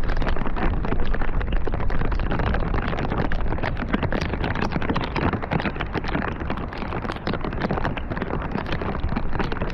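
Tropical-storm wind buffeting the microphone in a steady low rumble, with rain crackling and pattering densely through it.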